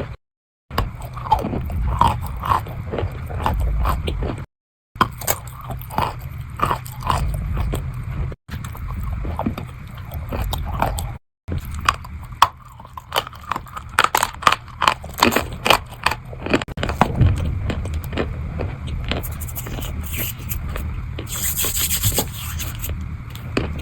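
Close-miked biting and chewing of wet chalk: many short, sharp crunches and scraping chews over a low steady hum, broken by a few abrupt silent cuts, with one loud hissing crunch near the end.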